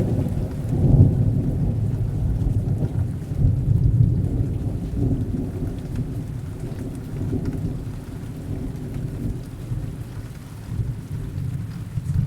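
A long rolling thunder rumble over steady heavy rain, loudest in the first few seconds, then slowly fading, with a smaller swell near the end.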